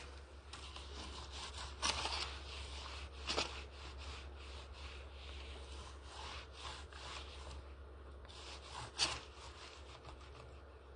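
Irregular rubbing and wiping strokes on a car surface, the loudest swipes about two, three and a half, and nine seconds in, over a steady low hum.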